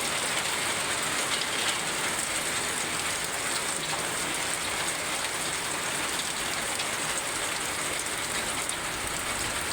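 Heavy rain falling steadily in a summer rainstorm: a dense, even hiss of rain.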